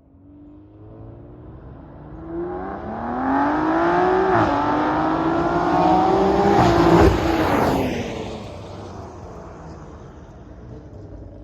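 BMW X3 M's S58 twin-turbo inline-six, with aftermarket downpipes, midpipe and an E50 tune, accelerating hard. The engine note climbs, drops at an upshift about four seconds in, then climbs again. The throttle closes around seven seconds in and the sound fades away.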